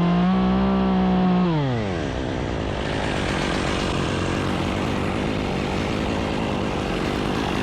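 Chainsaw revved to high speed and held there for about a second and a half, then dropping back to a steady low running note for the rest of the time.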